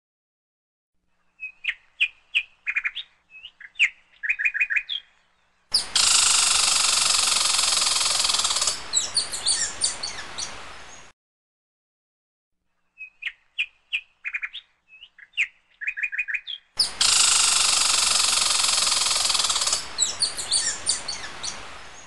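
Small birds chirping in a run of short, quick calls, then a loud, dense hiss-like wash for about five seconds with more chirps over its end. The whole sequence plays twice, identically, with dead silence between: a looped bird-sound clip.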